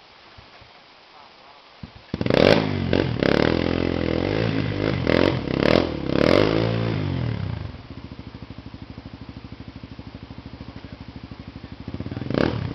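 Trail motorcycle engine coming in suddenly about two seconds in and revving hard several times, its pitch rising and falling. It then drops to a steady idle, with one short rev near the end.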